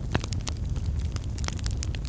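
Wood fire in a fireplace crackling: many sharp, irregular pops and snaps of burning logs over a steady low rumble of the flames.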